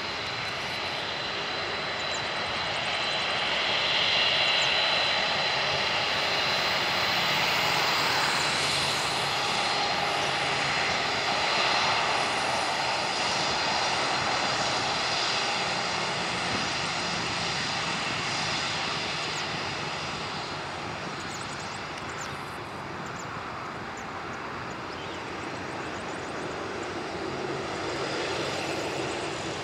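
Boeing 747-8F's four GEnx turbofan engines running as the jet moves near the airport: a steady rush of jet noise with a thin high fan whine. It swells about four seconds in and again around ten seconds, then slowly fades.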